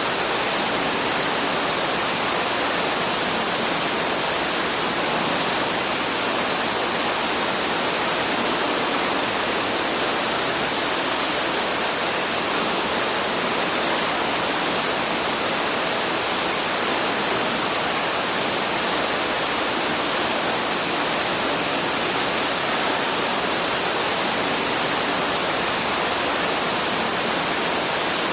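A waterfall's steady rush of falling water: an even, unchanging hiss weighted toward the higher frequencies, with no birdsong standing out.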